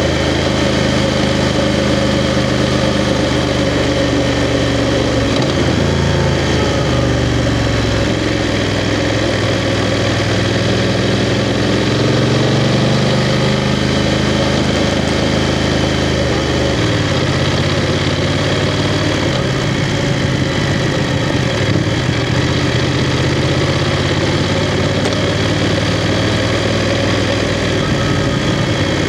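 BMW F 750 GS motorcycle's 853 cc parallel-twin engine running under way, its pitch stepping between steady engine speeds several times, over constant wind and road noise.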